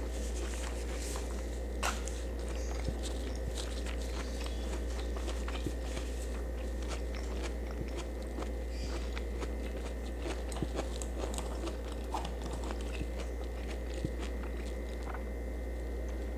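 Close-up chewing of food: wet mouth sounds with small crunches and scattered clicks at an irregular pace. A steady low hum runs underneath.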